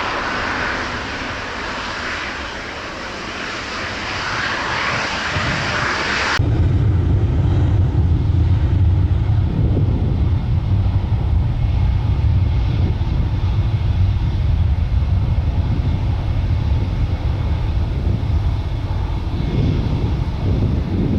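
Jet airliner engines on takeoff. First a Boeing 787-9's high hissing roar; about six seconds in it cuts abruptly to the low, steady rumble of an Embraer E195-E2 departing.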